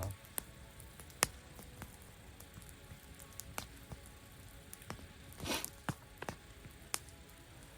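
Campfire crackling: scattered sharp pops and clicks of burning wood, with a brief soft rustle about five and a half seconds in.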